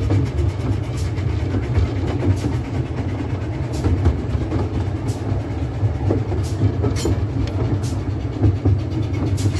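Garden steam railway train running, heard from an open carriage: a steady low rumble with a sharp click about every second and a half as the wheels cross rail joints.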